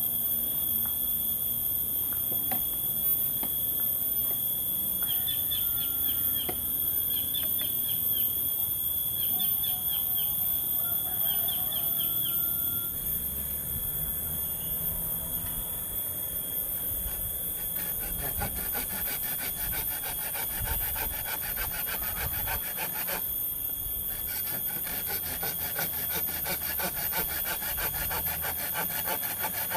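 Hand saw cutting wood in rapid back-and-forth strokes through the second half, under a steady high-pitched hum. A bird chirps in four short runs in the first half.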